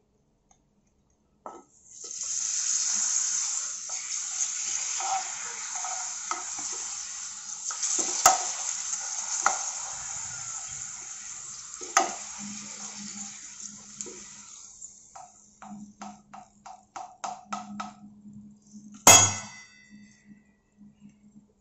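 A papad sizzling loudly in hot oil in a nonstick frying pan, the sizzle dying away after about a dozen seconds as it crisps, with metal tongs tapping against the pan now and then. Then comes a run of quick light clicks and a single sharp metallic clank with a short ring, near the end.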